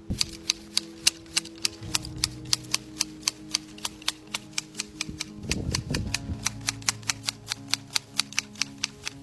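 Rapid, evenly spaced sharp clicks, about four or five a second, over low steady background tones.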